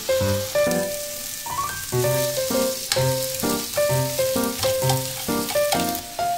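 Cabbage and carrot sizzling in a hot frying pan as they are stirred with chopsticks, under louder background music of short melodic notes over a steady beat.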